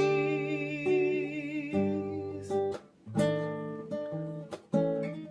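Acoustic guitar strumming chords, a fresh chord struck about every second and a half with brief dips between them.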